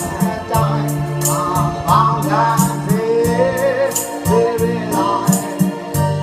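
A voice singing a Thai song with wavering vibrato, over a backing track with a bass line and a steady ticking hi-hat beat.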